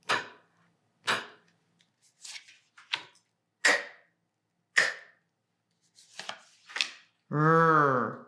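A voice making short, clipped phonics letter sounds, about one a second, then a long drawn-out "rrr" near the end.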